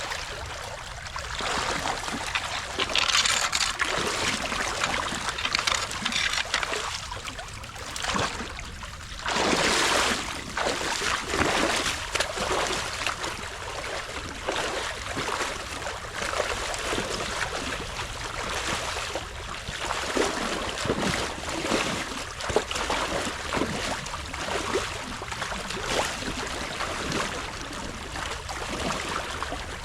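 Water trickling and gurgling through the opening in a partly torn-out beaver dam, with irregular louder surges and splashes, the biggest about nine seconds in.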